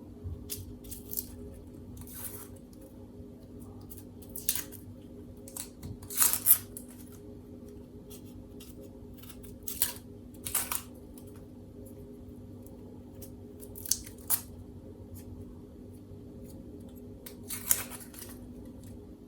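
Scattered short swishing and snipping noises, a dozen or so, loudest about six seconds in and near the end, over a steady low appliance hum.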